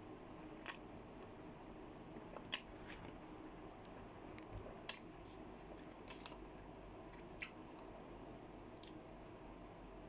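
Close-miked chewing of kebab meat: a few scattered wet mouth clicks and smacks, the loudest about two and a half and five seconds in, over a faint steady room hum.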